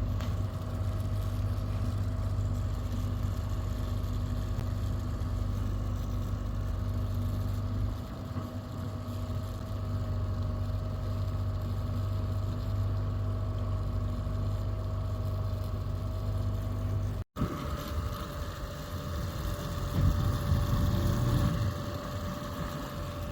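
Motorboat engine running steadily with a constant low hum and a held tone. It cuts out for an instant partway through, then carries on a little rougher and louder.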